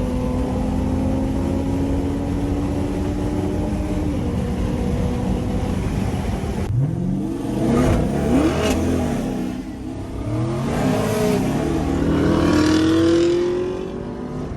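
Straight-piped Dodge Durango exhaust under acceleration, its pitch climbing and dropping as the revs rise and the gears change. About seven seconds in the sound changes abruptly, then gives several quick rev rises and falls.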